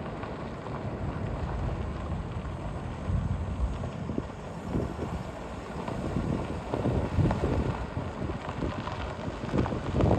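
Wind buffeting the microphone in uneven low gusts, with no steady engine note.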